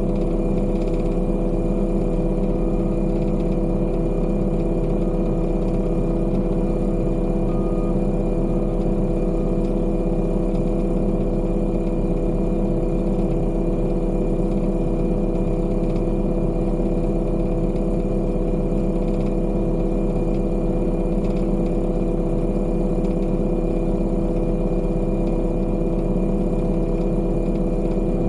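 Diesel engine of heavy construction machinery running at a steady speed: an even drone that holds the same pitch throughout.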